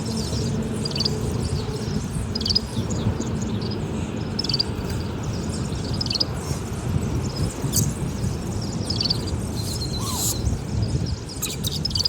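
A bird giving short, high chirps again and again, roughly every second or two, over a steady low background rumble. A brief burst of noise comes about ten seconds in.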